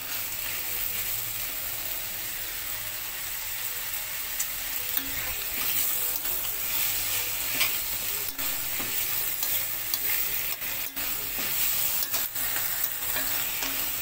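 Fermented mustard greens with kepayang frying in a pan, sizzling steadily, with a few sharp clicks from stirring. The dish is nearly cooked.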